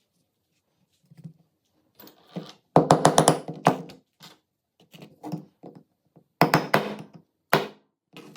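Sharp metallic clicks and clacks in several quick clusters, each with a short ring, from pistol parts being worked by hand.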